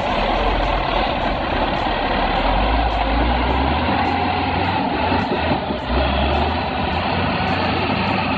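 Heavy vehicle engine running with a dense, steady mechanical rumble; its low drone shifts in pitch a few times.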